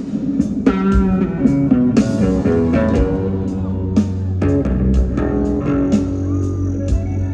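Live rock band playing an instrumental passage: guitar notes over bass guitar and a steady drum beat.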